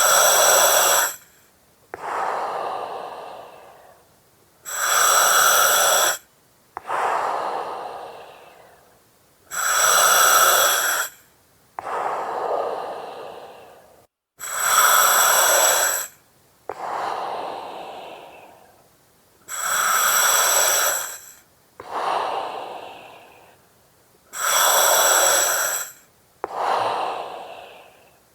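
Slow, steady breathing through an oxygen mask, about one breath cycle every five seconds. Each cycle is a loud hissing breath through the mask lasting about a second and a half, then a softer breath that fades away.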